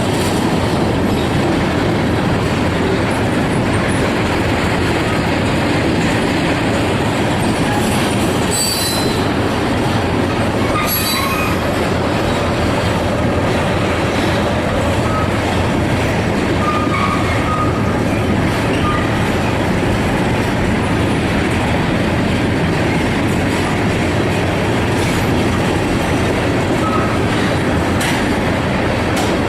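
Freight train cars rolling past at speed, a steady loud rumble and clatter of wheels on rail, with brief high wheel squeals about nine and eleven seconds in.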